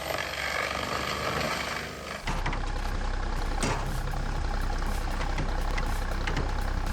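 Heavy machine's engine running steadily, joined about two seconds in by a louder, deeper steady hum.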